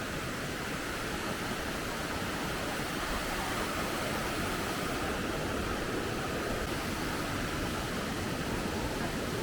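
The Tolminka river rushing steadily through its gorge, a constant even hiss of flowing water.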